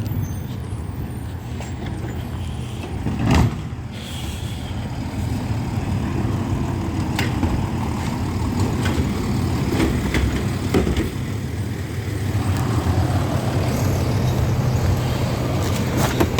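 Heil Rapid Rail garbage truck running with a steady low engine drone, with scattered knocks and one brief loud noise about three and a half seconds in.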